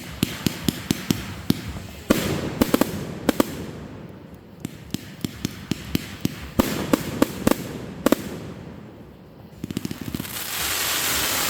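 Fireworks going off: runs of sharp bangs in quick succession, several a second, in volleys. Near the end a loud, dense hiss and crackle takes over.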